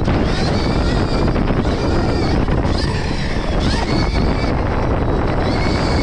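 Stark Varg electric motocross bike ridden hard, its motor whining up and down in pitch as the throttle comes on and off. Heavy wind noise on the microphone runs under it.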